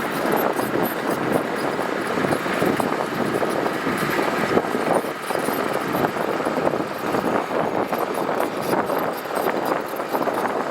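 Heavy earthmoving machinery working gravel: a diesel machine running steadily, with continuous clattering and crunching.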